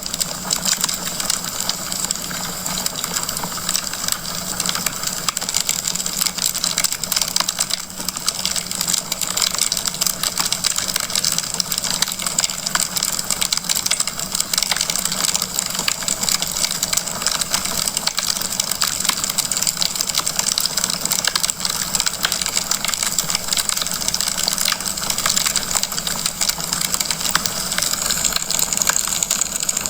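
Wood fire crackling in a fireplace: a dense, continuous patter of small pops and snaps over a steady hiss.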